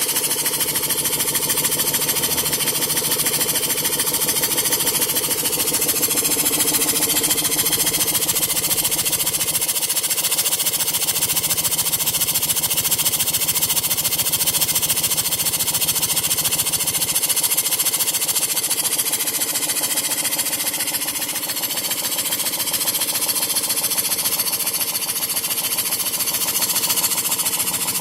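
Model James Coombes engine, built from Stuart castings, running steadily on compressed air: a fast, even beat of exhaust puffs over a constant hiss of air.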